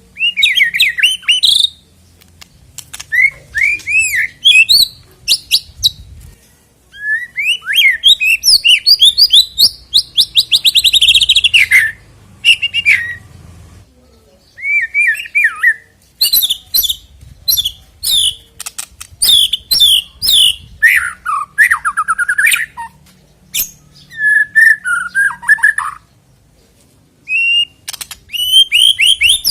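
White-rumped shama (murai batu) singing loud bursts of varied whistles, slurred notes and fast trills, with short pauses between phrases. This is the full, emphatic song used as a lure to make other shamas sing.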